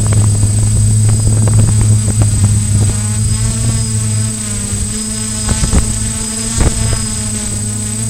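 Quadcopter's electric motors and propellers buzzing at a steady pitch, with irregular crackling knocks of wind buffeting the microphone.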